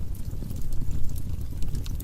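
Wood fire burning in a fireplace: a steady low rumble of flames with frequent quick, sharp crackles and pops.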